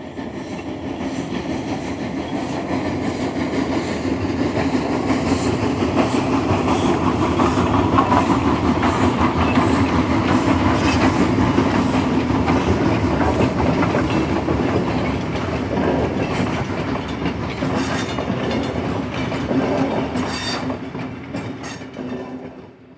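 A train running on rails with a steady rumble and clickety-clack of wheels over rail joints. It builds up in the first seconds and fades out near the end.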